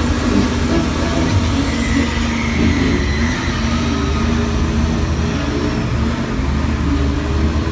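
Universal Studios tour tram rolling along, a steady low engine and road rumble heard from on board. A faint high whine slowly falls in pitch over the first several seconds.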